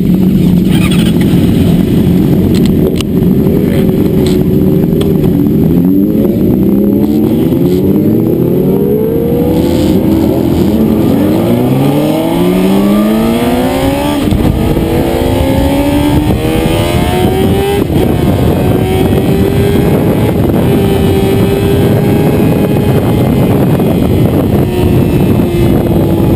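Motorcycle engine accelerating hard through the gears on a race track, its revs climbing and dropping back at each upshift several times in a row. It then pulls up to a steady high rev, with wind rushing over the machine.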